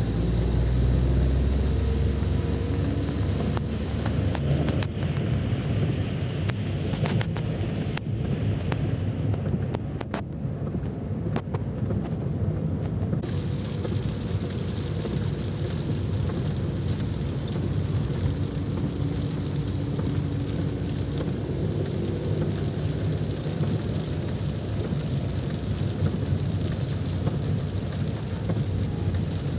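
Steady rain falling, with a constant low rumble underneath and a few sharp ticks of drops in the first half.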